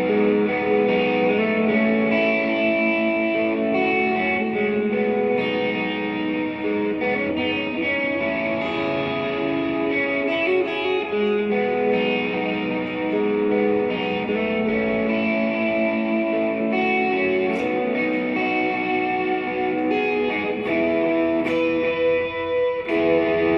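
Electric guitar played through a worship pedalboard with delay and hall reverb on, sustained notes ringing and overlapping into an ambient wash.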